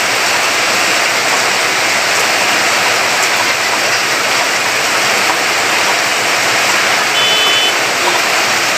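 Heavy rain falling, a steady rushing of water.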